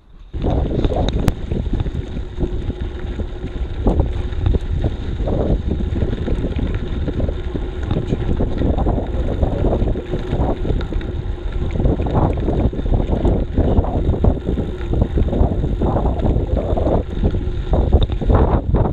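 Wind buffeting the microphone of an action camera on a moving bicycle: a loud, steady rumble that comes in abruptly right at the start.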